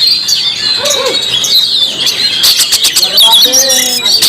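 Oriental magpie-robin singing loudly: a fast, varied string of gliding whistled notes, with a rapid rattle of clicks about two and a half seconds in.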